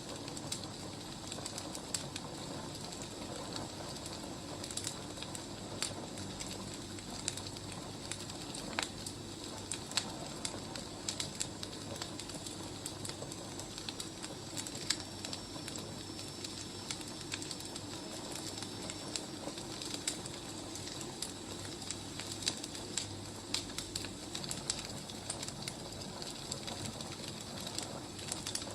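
Wood fire crackling: irregular small pops and snaps over a steady low hiss.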